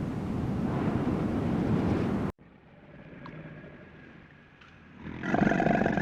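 A steady rushing noise cuts off abruptly about two seconds in, as at a cut between clips. Near the end a loud animal call with a clear pitch begins.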